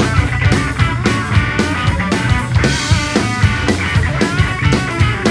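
Rock band playing an instrumental passage without vocals: drum kit keeping a steady beat under electric guitar and bass.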